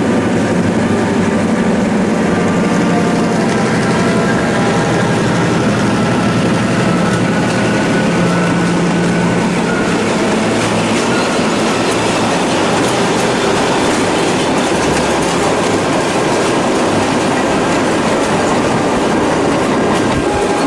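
A train running along the track: a steady rumble of wheels on rail with the clickety-clack of rail joints.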